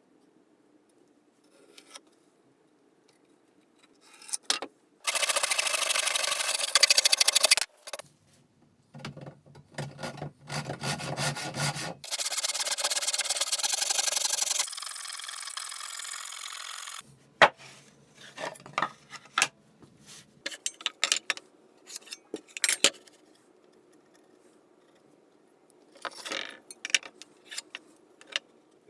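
Hand saw cutting through wood in a few stretches of several seconds each, each starting and stopping abruptly, with scattered light knocks and clicks from hand-tool work between them.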